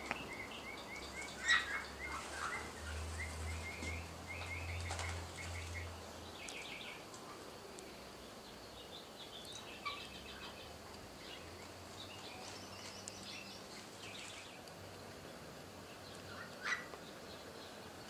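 Birds chirping in rapid runs of short repeated notes, with a louder sharp call about a second and a half in and another near the end, over a faint low background hum.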